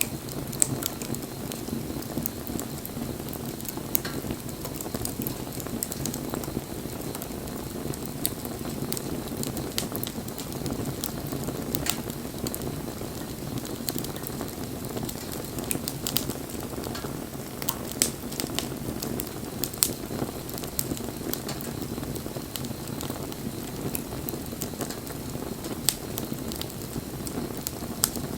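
Wood campfire burning: a steady low rush of flame with many irregular sharp crackles and pops.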